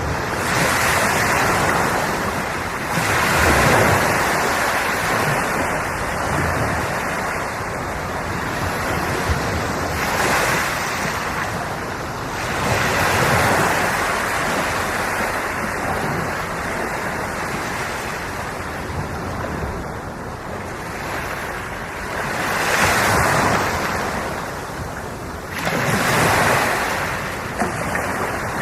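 Sea waves breaking and washing in, the noise swelling and fading as each wave arrives, with six or so surges a few seconds apart.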